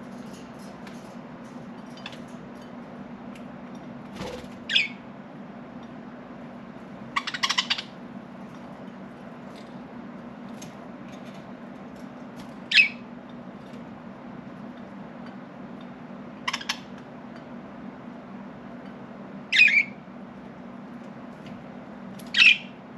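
Budgerigars giving short, sharp calls every few seconds, about six in all, most falling quickly in pitch, one a rapid cluster of chirps, over a steady low hum.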